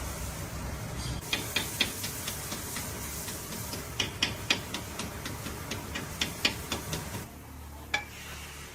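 An irregular run of light metallic clicks and clinks, like small metal parts or hand tools being handled, over a steady low hum. The clicks start about a second in and stop near the end.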